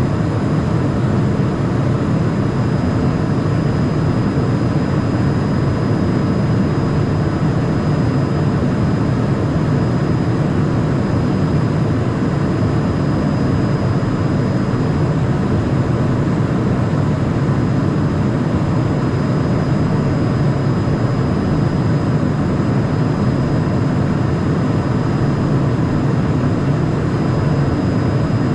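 Cockpit noise of a Cessna Citation Mustang light jet with its twin Pratt & Whitney PW615F turbofans: a steady, unbroken rush of engine and airflow noise with a faint high whine held on one pitch, picked up by a camera microphone rather than the headset.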